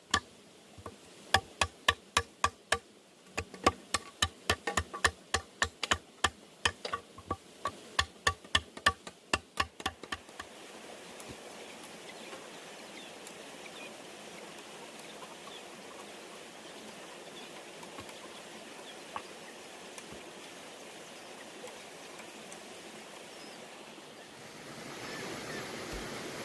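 Rapid, evenly paced strikes of a tool on bamboo, about two to three a second, each with a short ringing tone; they stop about ten seconds in. A steady rushing noise follows and grows a little louder near the end.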